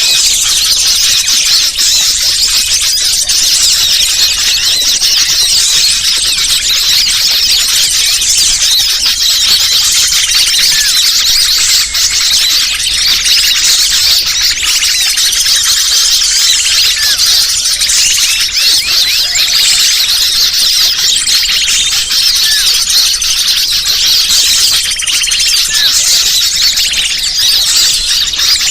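Bird-lure (pikat) recording: a dense, unbroken chatter of many small birds' high chirps and squeaks, the kind of sound played to draw wild birds in.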